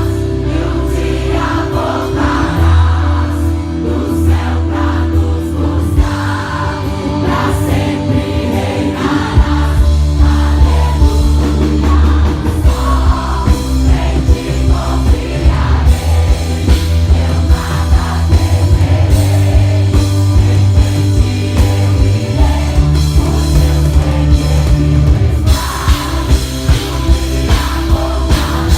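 Live gospel worship band playing, with voices singing over the instruments; a regular, driving beat takes hold about ten seconds in.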